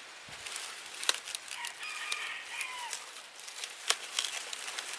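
Chicken calling on a farm: one pitched call of about a second, about two seconds in, among a few sharp clicks or snaps.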